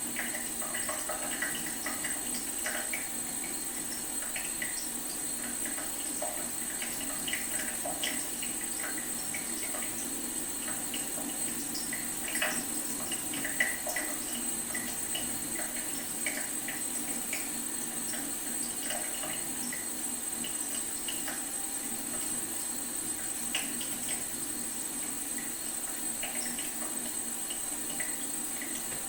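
Leaky faucet dripping: many small, irregular drops splashing over a steady watery hiss, with a faint steady high whine running underneath.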